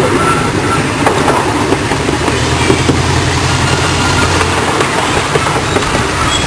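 Miniature park train running, with a steady engine hum and rumble heard from aboard the coach.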